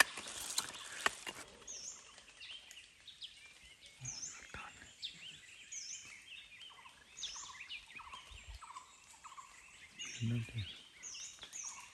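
Several forest birds calling, with many short repeated chirps and quick down-up notes overlapping. A brief rustle comes at the start, and a short low human voice sounds around ten seconds in.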